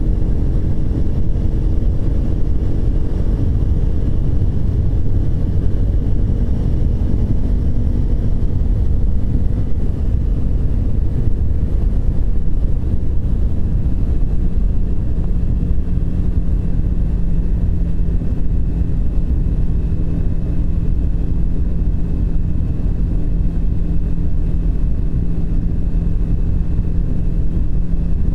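Triumph Speed 400's single-cylinder engine running at a steady cruise, under heavy wind rumble on the microphone.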